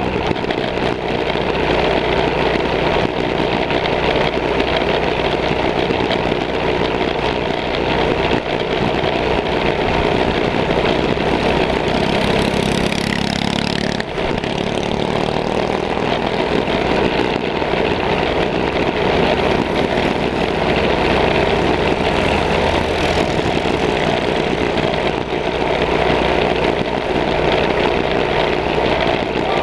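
Baja mini bike engines running under throttle during a race, a continuous steady engine noise, with another engine's tone briefly standing out near the middle.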